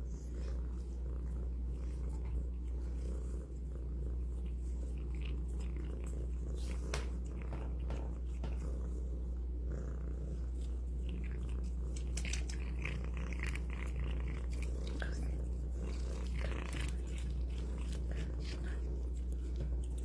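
Domestic cat purring steadily while chewing shrimp, with scattered small crunching and smacking clicks from the bites.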